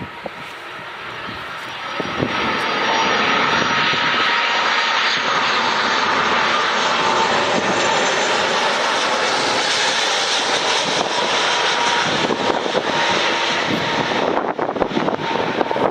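Engine noise of a fixed-wing aircraft flying low overhead: it swells about two seconds in and holds loud and steady with a faint whine. Near the end, wind buffets the microphone.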